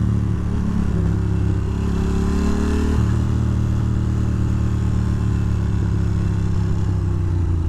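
A Ducati Monster 620's air-cooled L-twin engine running under way, rising slowly in pitch, then dropping in pitch about three seconds in and holding steady, over a steady rushing noise.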